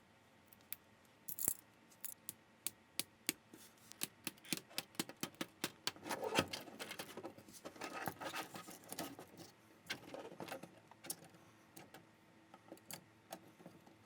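Plastic LEGO-style building bricks clicking and clattering as they are picked up, handled and pressed together: a quick run of small plastic clicks, busiest in the middle with some rustling, thinning out near the end.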